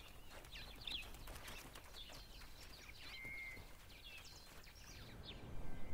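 Faint wildlife ambience with scattered short bird chirps and whistles, one whistle held briefly a little after three seconds in.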